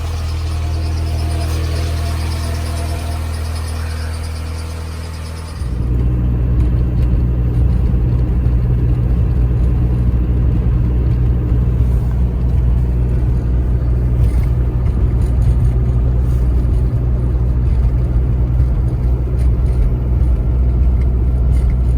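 2001 Volkswagen TDI turbodiesel engine idling steadily just after a cold start at minus 11 degrees. About six seconds in the sound changes abruptly to a louder, deeper idle with less high-end, which then holds steady.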